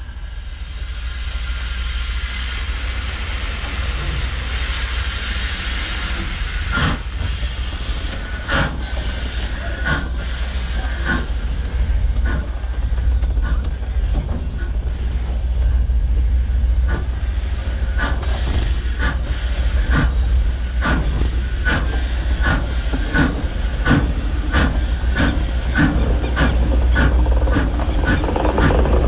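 A long hiss in the first seven seconds or so, then a train rolling slowly along the track: the wheels click over the rail joints, coming faster and faster as it gathers speed, with two brief high wheel squeals. A deep steady rumble runs underneath.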